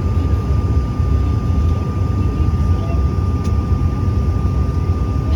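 Steady cabin noise of a regional jet airliner: a constant low engine rumble with a thin, steady high whine over it, heard from inside the passenger cabin.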